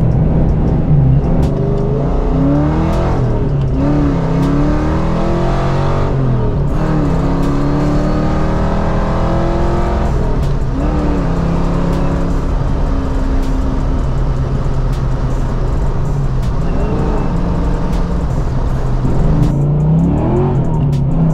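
A 1993 Mustang GT's 5.0 V8 with Trick Flow 170 heads, a Track Heat intake and an Anderson N41 cam, accelerating and shifting through the gears, heard from inside the cabin. The engine note climbs and drops back several times.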